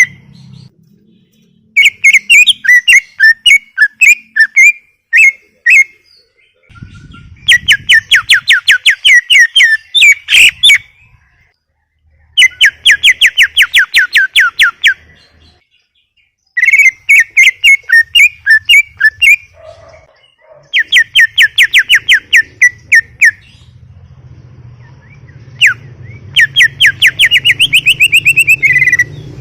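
Green leafbird (cucak ijo) singing in loud bursts of rapid, repeated whistled notes, each phrase lasting a couple of seconds, with short pauses between phrases.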